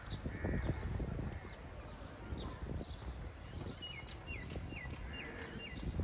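Birds calling: scattered high chirps, and about four seconds in a run of five short whistled notes, each falling in pitch, over irregular low thumps and rumble.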